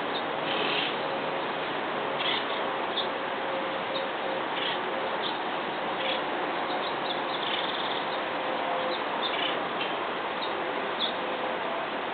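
Backyard birds chirping, with short high calls scattered through, over a steady background hiss.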